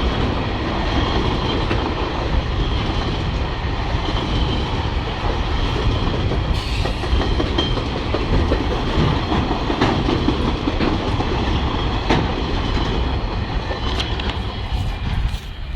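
Freight train wagons rolling past on the track, a steady loud rumble with the wheels clacking over the rail joints.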